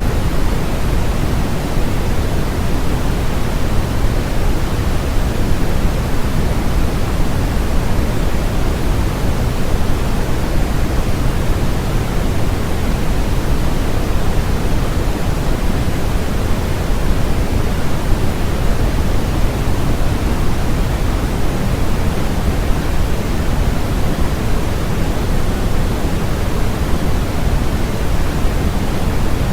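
Steady generated white noise: an even, unchanging hiss with its weight in the low end, no rhythm and no events.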